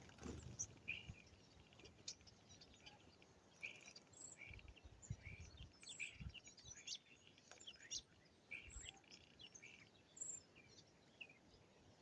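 Birds chirping faintly: short, scattered chirps.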